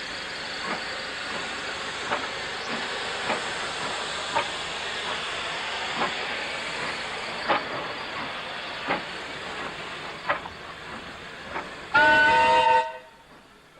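Narrow-gauge Beyer Peacock steam locomotive running with a steady hiss and a sharp click about every second and a half. About twelve seconds in it gives a short, loud whistle blast of about a second that cuts off suddenly.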